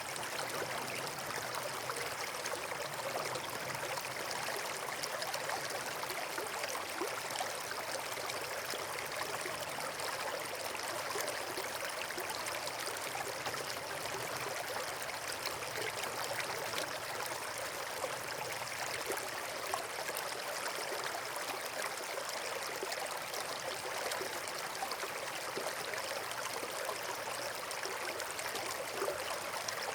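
Running water: a steady rush of a stream or small waterfall, even throughout with fine flickering detail.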